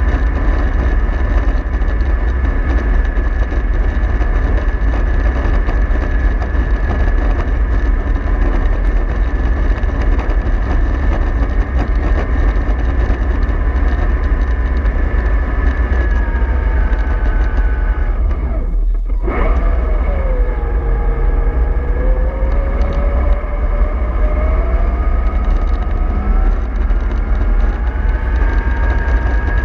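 Bus engine and gearbox running under way with a steady rumble and a whine. About two-thirds through, the sound cuts out for a moment, then the whine comes back low and climbs steadily as the bus pulls away again.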